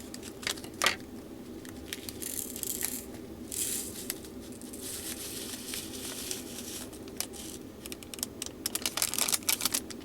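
Plastic bags of diamond painting drills crinkling as they are handled, then many small plastic drills clicking and rattling as they are poured into a storage container, with a dense run of clicks in the last couple of seconds.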